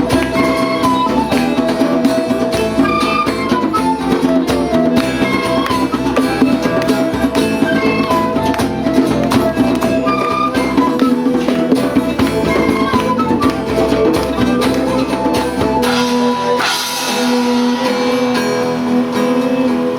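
A band plays an instrumental passage of a song. About sixteen seconds in, the low end and the percussion drop away, leaving sustained notes.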